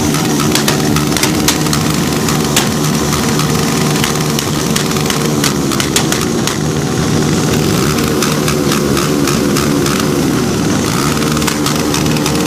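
Motorcycle engine idling steadily, with frequent sharp clicks.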